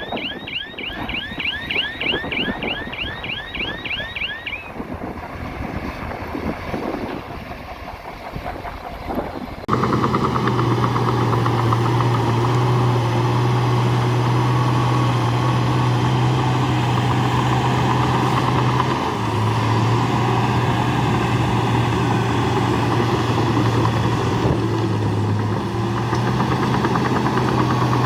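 Heavy diesel earthmoving engine running. For the first few seconds there is a rapid run of high chirps, about four a second, over a low rumble. About ten seconds in, the sound switches suddenly to a loud, steady engine hum, which dips briefly twice later on.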